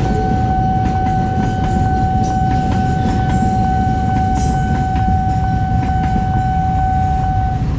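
Train passing: a steady rumble with short clicks from the wheels on the rail joints, and a steady high-pitched tone held throughout that cuts off near the end.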